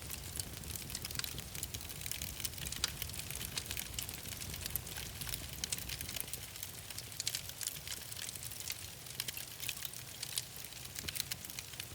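Fire in a fireplace crackling, with many small irregular pops and snaps over a steady low rumble.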